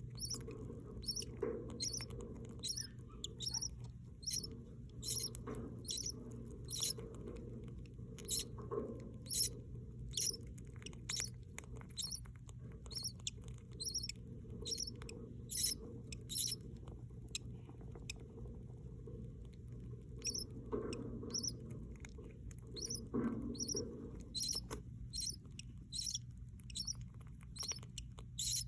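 Baby budgie chicks peeping in the nest: rapid, high-pitched squeaks several a second, with a short pause a little past the middle.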